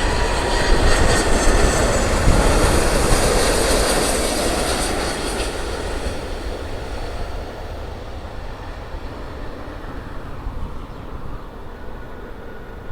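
Hawaiian Airlines jet airliner's engines passing close by: a loud, even jet noise that is strongest for the first few seconds and then fades away steadily.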